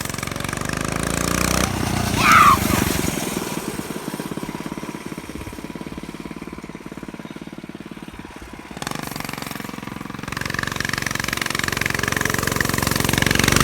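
Small dirt bike's engine running as it rides by. It passes close about two seconds in with a quick drop in pitch, fades as it moves away, then comes back louder near the end.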